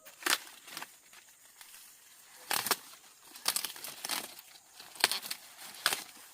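Dry corn plants rustling and crackling as corn is being harvested: a string of irregular sharp crackles and tears of dry leaves and husks.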